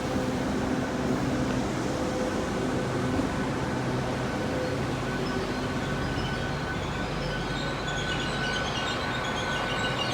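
Great Western Railway Class 800 IET bi-mode train drawing into the platform on its underfloor diesel engines, a steady hum with held tones. A high, wavering squeal joins in about halfway as the train slows to a stop.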